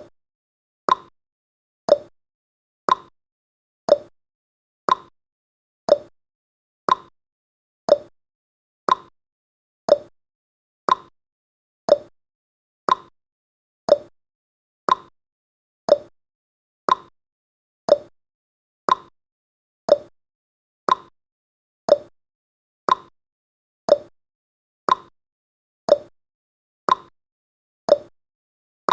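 Clock tick-tock sound effect: one sharp tick every second, alternating higher and lower in pitch, with silence between ticks.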